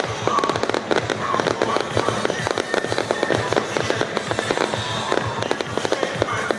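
Fireworks going off in a rapid, continuous barrage of bangs and crackles, many shots a second with no break.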